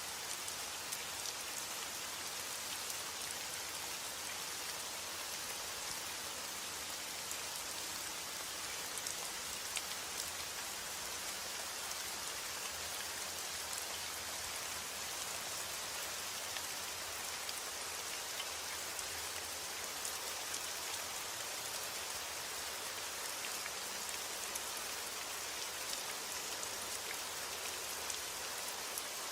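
Steady rain: an even hiss of falling water with scattered sharper taps of single drops.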